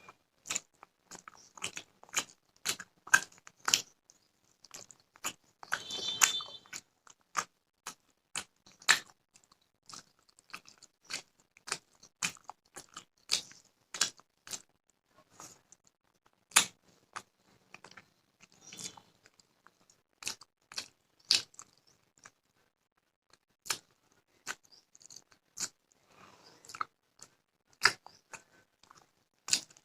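Close-miked chewing and eating: irregular, crisp crunches and wet mouth clicks, one or two a second, of someone eating a meal that includes raw cucumber and onion.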